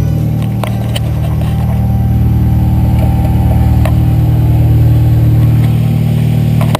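VW Santana's AP 2.0 four-cylinder petrol engine idling steadily, shortly after being started, with a few light clicks over it.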